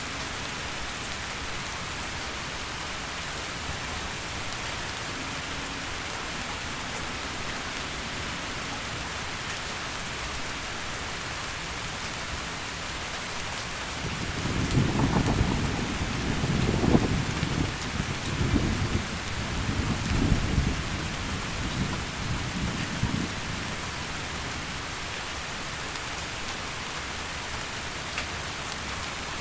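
Heavy rain falling steadily as an even hiss, with a long low roll of thunder from about halfway in that swells in several waves over some nine seconds before dying away.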